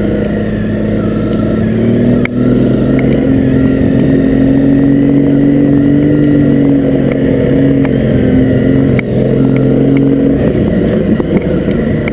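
Honda CRF250L's single-cylinder four-stroke engine running under throttle, its pitch rising a little then holding steady, with two brief drops in engine sound, about two seconds in and near nine seconds. Scattered sharp knocks sound over it.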